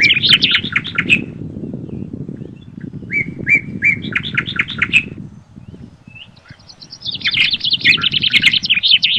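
A songbird singing three bursts of fast, rapidly repeated notes, with the wind rushing low and steadily in the forest underneath, easing briefly midway.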